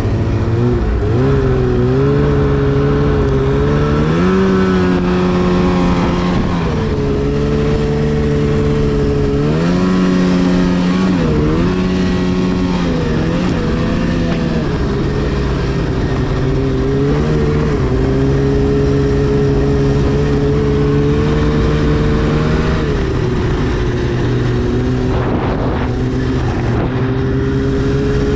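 Arctic Cat CFR 1000 snowmobile's two-stroke twin-cylinder engine running, its revs rising and falling several times with the throttle.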